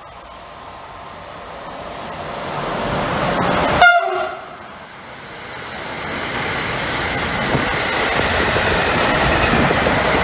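A train approaching on the line, its running noise growing steadily louder, with one short horn blast about four seconds in.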